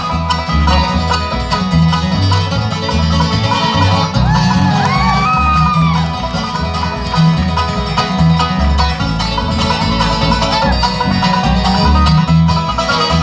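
Bluegrass band playing an instrumental break between verses, banjo and guitar over a steady bass pulse, with a sliding lead melody about four seconds in.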